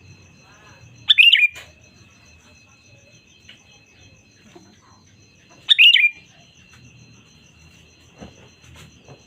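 Sooty-headed bulbul giving two loud, short chattering call phrases about four and a half seconds apart. A faint steady high tone runs underneath.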